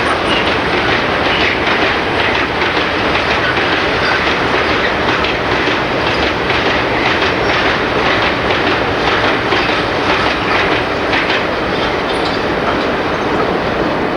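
Freight train rolling past, its wagon wheels clicking over the rail joints in a steady clatter.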